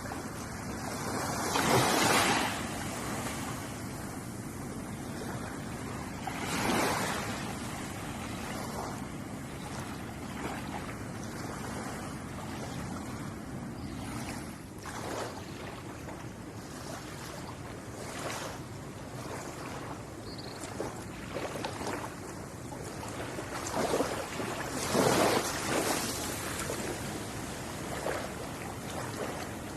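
Ocean waves washing against the shore in a steady hiss. Louder breakers swell up about two seconds in, again around seven seconds, and twice near the end.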